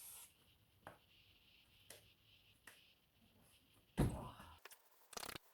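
A few faint taps and knocks, then a louder thump about four seconds in, followed by a short noisy rustle near the end.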